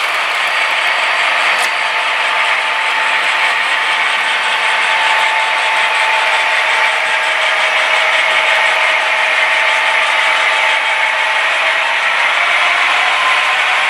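Model train running on the layout: a steady clatter of wheels on track with an even motor whine, the pitch shifting slightly near the end.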